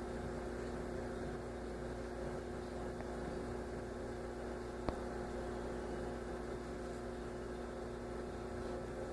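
A steady low hum carrying a couple of even, unchanging tones, with one faint click about five seconds in.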